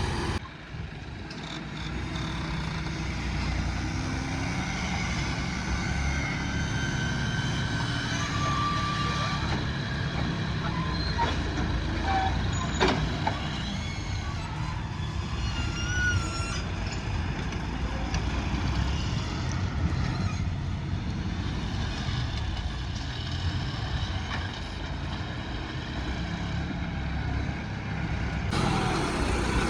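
Heavy diesel vehicle engines running steadily, with a few short high-pitched tones and a sharp click heard over them.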